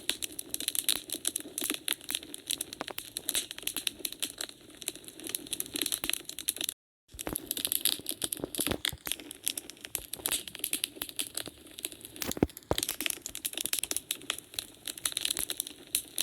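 Wood fire crackling, with dense, irregular snaps and pops and a louder pop past the middle. The sound cuts out completely for a moment about seven seconds in.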